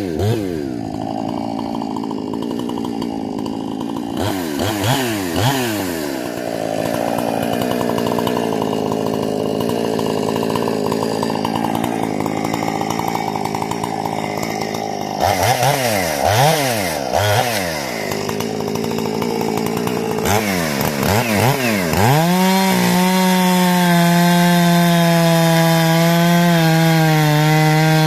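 Husqvarna 460 two-stroke chainsaw with a modified carburettor and muffler, revved in repeated quick throttle blips, running lower and unsteadily for stretches in between, then held at a high, steady full throttle for the last few seconds.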